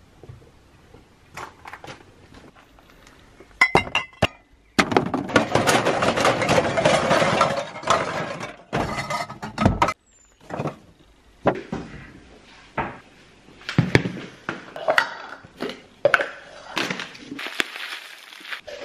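Dishes and glassware clinking and knocking together while being washed up, in a run of sharp clinks. About five seconds in, a steady rushing noise lasts roughly three and a half seconds.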